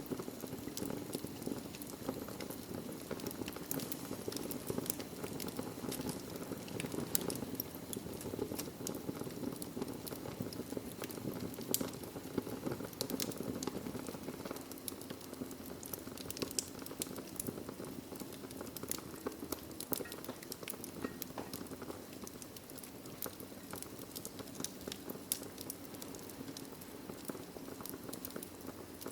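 Wood logs burning in a fireplace: a steady low rushing hiss of the flames with frequent sharp, irregular crackles and pops.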